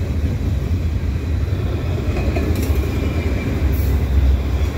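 Freight cars of a long mixed freight train rolling past on jointed rail: a steady low rumble of wheels on track, with a short high squeak about four seconds in.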